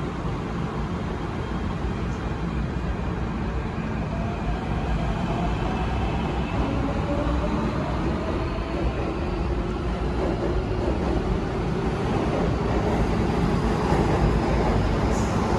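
MTR K-Stock electric multiple unit pulling out of the station: the traction motors whine, rising slowly in pitch as the train accelerates, over a steady rumble that grows gradually louder.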